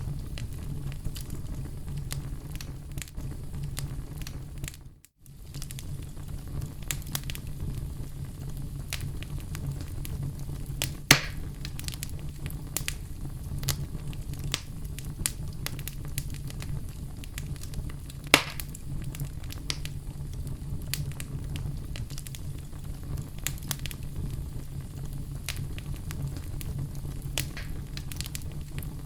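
Oak wood fire burning in a fireplace: a steady low rumble with constant small crackles and two louder sharp pops, one about eleven seconds in and one about eighteen seconds in. The sound drops out briefly about five seconds in.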